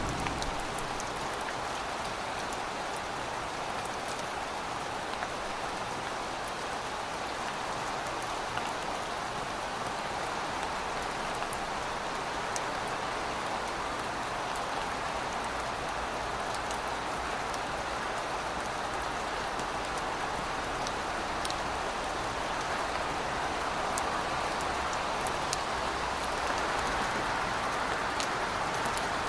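Steady rain falling, an even hiss with scattered individual drop ticks and no thunder, growing slightly louder towards the end.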